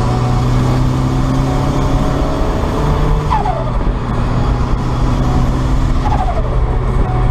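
Turbocharged 1990 Mazda MX-5 1.6 engine running steadily under way. About three seconds in and again about six seconds in, a short falling whistle: the Garrett T25 turbo spooling down on lift-off.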